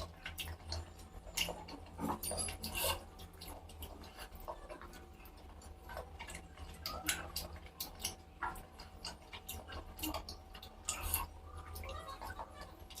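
A person eating on a close microphone: irregular chewing and mouth clicks, a few a second, over a low steady hum.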